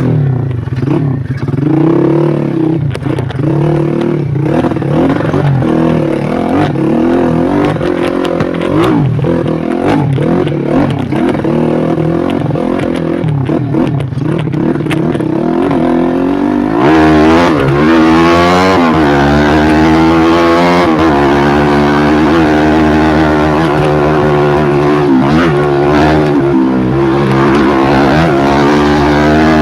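Single-cylinder four-stroke engine of a modified Yamaha Jupiter Z underbone motorcycle, bored up to 130cc, revving up and down under load on a rough rocky trail, with some clatter. About seventeen seconds in the revs climb and the engine gets louder.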